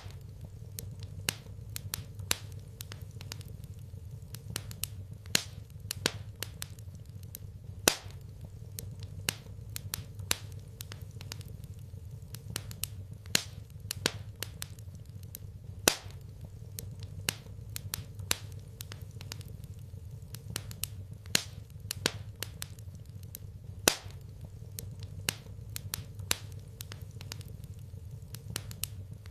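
Wood fire crackling in a fireplace: irregular sharp pops and snaps, several a second, some louder than others, over a steady low hum.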